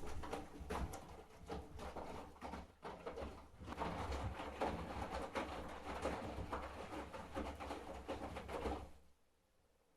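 Candy GrandO Plus washing machine running on its Boilwash Cottons 90 programme, with a low motor hum and churning from the drum; it stops about nine seconds in.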